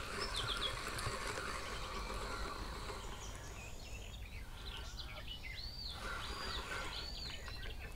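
Small birds calling: a couple of short chirps about half a second in, then three arching whistled notes in a row near the end, over a faint steady outdoor hiss.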